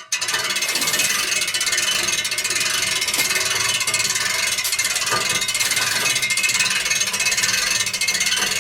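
Rapid, even mechanical clicking of turning gears or a ratchet, starting abruptly.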